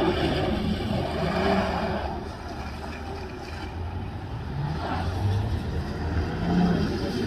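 BMW M3's twin-turbo straight-six engine revving as the car slides sideways across a wet skid pan. The engine note drops away about two seconds in and climbs again from about halfway through.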